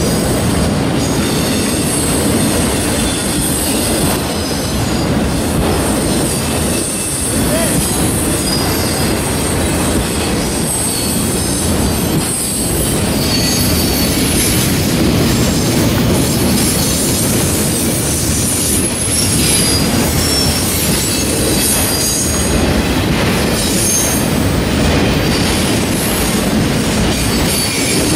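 Freight train of autorack cars rolling past at close range: a steady loud rumble of steel wheels on rail, with brief high-pitched wheel squeals coming and going.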